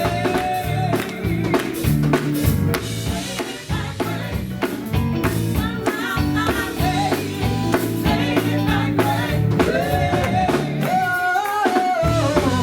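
Live gospel band with drum kit and guitar playing while a singer sings sustained lines over it.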